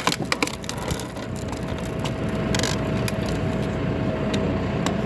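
Tractor engine running a hydraulic log splitter, with a steady hum, while a log cracks and splinters as the ram pushes it apart. The sharp cracks bunch together near the start and come singly later.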